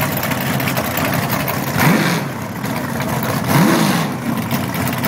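A street car's engine idling at the drag strip's starting line, blipped twice in quick revs that rise and fall back to idle, about a second and a half apart.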